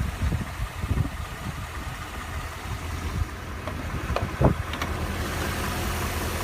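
Mercedes-Benz G550's 5.5-litre V8 idling steadily, with irregular knocks and thumps over the first few seconds and a sharp click about four and a half seconds in.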